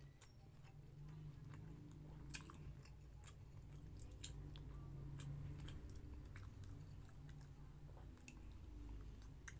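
Close-miked chewing of a mouthful of pork menudo and rice, with short soft mouth clicks and smacks scattered throughout, over a low steady hum.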